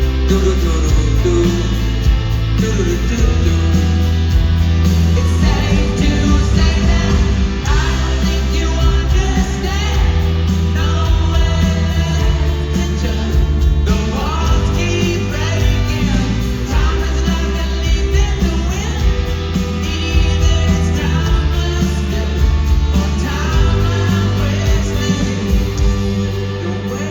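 A rock band playing live, with a steady bass line under guitars and a singing voice.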